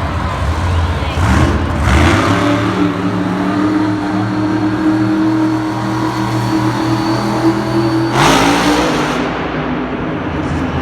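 Engine-like motor drone holding one deep pitch for several seconds, with short rushes of noise near the start and a louder one about eight seconds in.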